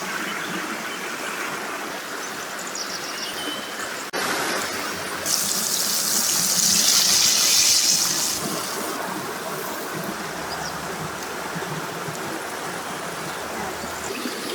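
Water running and splashing, with a louder rushing hiss from about five to eight and a half seconds in.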